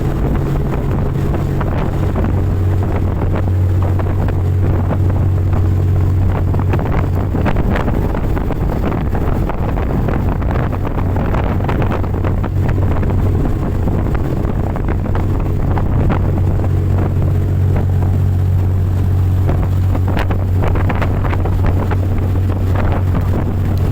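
Fast boat's engine running steadily at high speed, a constant low drone, with rushing water and wind buffeting the microphone over it.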